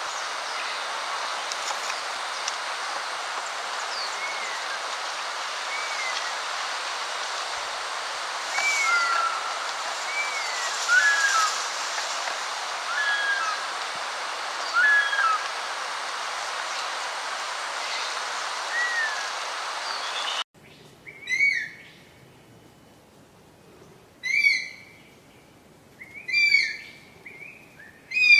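Bird calls: short arched whistled notes every second or two over a steady hiss of outdoor noise. After an abrupt cut about twenty seconds in, louder, downward-sweeping calls repeat about every two seconds.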